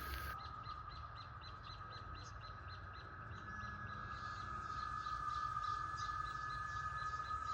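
Outdoor wildlife calls: a steady high-pitched drone, joined by a second tone a few seconds in, over a fast, regular chirping of about five calls a second that grows louder toward the end.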